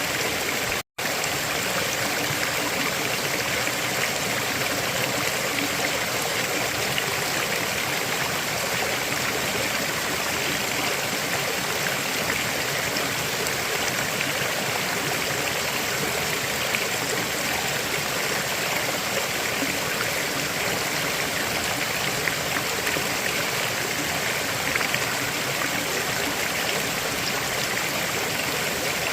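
River water flowing steadily, a continuous rushing with small trickles. It cuts out for an instant about a second in.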